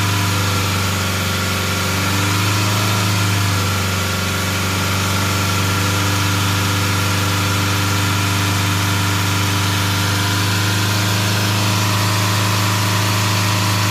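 Land Rover 2.0 Ingenium four-cylinder diesel engine running steadily at raised revs, around 3000 rpm, for a DPF back-pressure test, heard from underneath the car.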